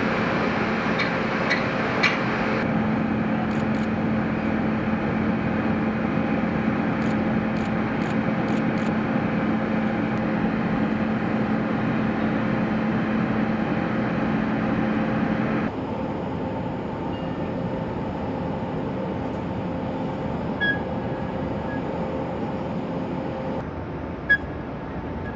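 Steady mechanical drone with a constant hum, which drops abruptly in level about two-thirds through, with a few faint clicks.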